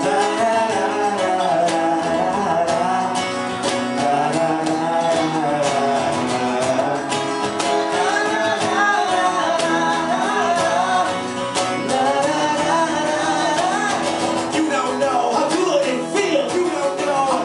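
Live band music: a bending lead melody over strummed acoustic guitar and a steady beat of hand percussion on a cajón.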